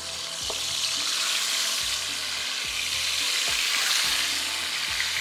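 Marinated chicken tikka pieces sizzling as they go into hot oil in a frying pan. The sizzle swells about half a second in and holds steady.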